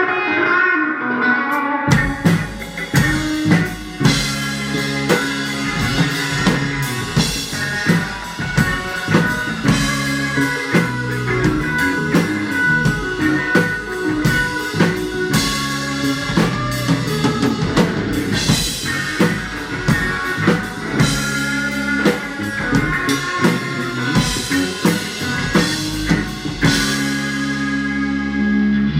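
Live rock band playing: drum kit, guitars and bass, with a steady beat of drum hits.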